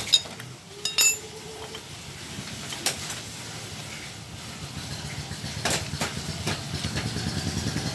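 Metal clicks and clinks of hand tools and small parts as a motorbike carburettor's throttle-valve cap is unscrewed and removed, the one about a second in ringing briefly, over a low steady hum.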